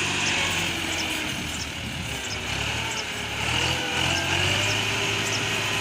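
Massey Ferguson 260 tractor's diesel engine running steadily, its pitch wavering slightly.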